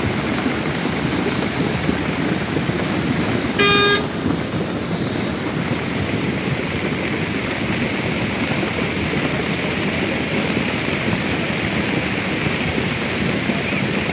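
A steady rushing noise throughout, with one short horn beep about four seconds in.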